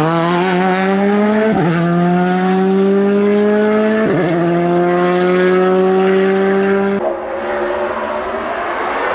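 Race car engine under full throttle, climbing in pitch through the gears with two quick upshifts, about a second and a half in and again about four seconds in. Near the end the sound changes abruptly to a rougher engine noise.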